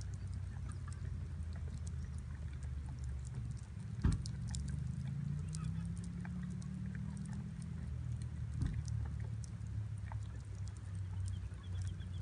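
Wood campfire crackling with scattered small pops over a steady low rumble, with a sharp knock about four seconds in and another near nine seconds.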